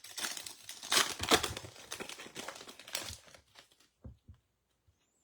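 Foil wrapper of a baseball card pack being torn open and crinkled, loudest about a second in and dying away after about three seconds, followed by a few soft knocks.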